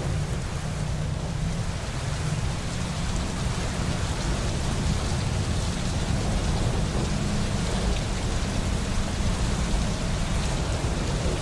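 Steady rushing noise of rain and wind with a deep rumble underneath, heard from inside a car.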